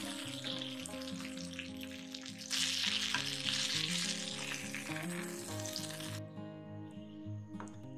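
Marinated chicken leg frying in oil on a tawa, sizzling steadily. The sizzle gets louder about two and a half seconds in and cuts off suddenly about six seconds in, leaving soft background music.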